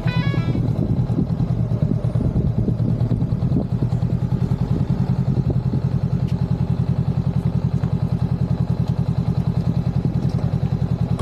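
Honda Rebel 500's 471 cc parallel-twin engine running steadily at idle, an even pulsing beat with no revving.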